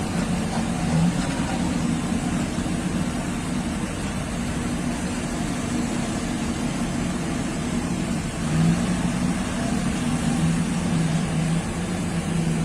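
Heavy mining machinery's diesel engine running steadily, briefly rising in pitch about eight and a half seconds in.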